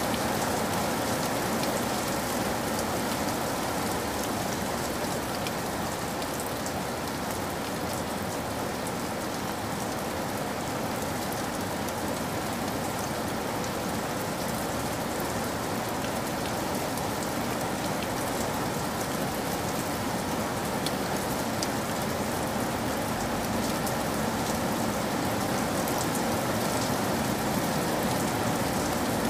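Steady, even hiss like falling rain, with faint scattered ticks like drops.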